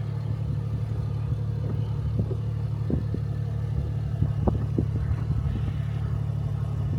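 Jeep Cherokee XJ engine running at low, steady revs while crawling a rocky off-road trail, with scattered light clicks and knocks.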